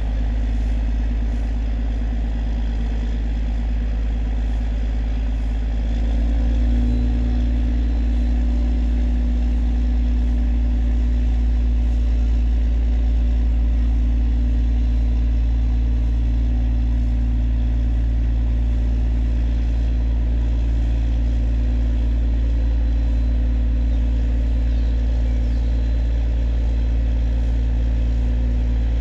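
Engine of a river towboat running steadily while towing a cargo barge, a low, even drone that grows louder about six seconds in.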